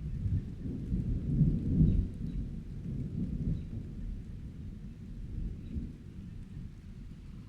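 Rolling thunder rumbling low, loudest about two seconds in and then slowly fading, over steady light rain.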